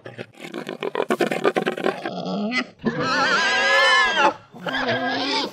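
Hogs grunting rapidly, then two long wavering squeals, the second shorter. The sound cuts off abruptly at the end.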